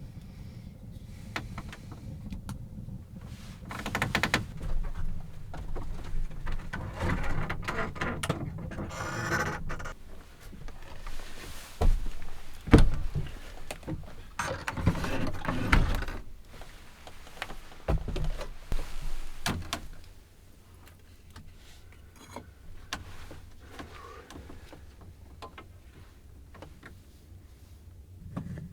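Irregular scraping, rustling and knocking of things being handled, with a few sharp knocks; about two-thirds of the way through it dies down to a quiet low rumble.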